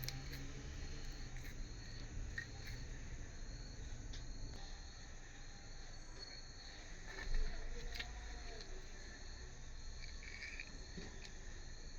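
A cricket chirping steadily in short chirps, about two a second, over a low steady hum, with a brief knock about seven seconds in.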